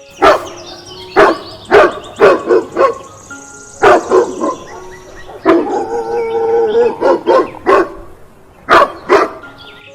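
A dog barking: about a dozen short, loud barks in uneven bunches.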